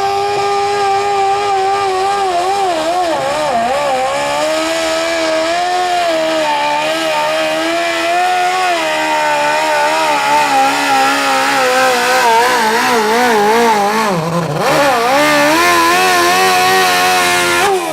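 Modified lawn tractor's engine running flat out under load during a pull, its high revs wavering and sagging twice as the load bites before recovering. Right at the end the revs drop away sharply as it comes off the throttle.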